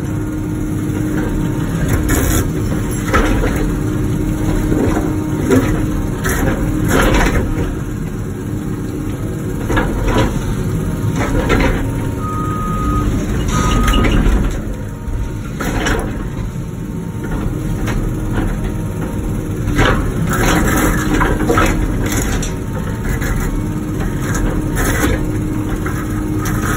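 Wacker Neuson ET145 excavator's diesel engine running under hydraulic load, with irregular knocks and scrapes of rock against rock as a heavy rock is worked into a hole. A short high tone sounds twice about halfway through.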